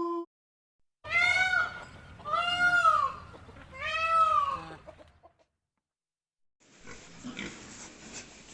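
An animal calling three times, each call short and clear, rising then falling in pitch; after a pause a different, rougher and noisier animal sound begins near the end.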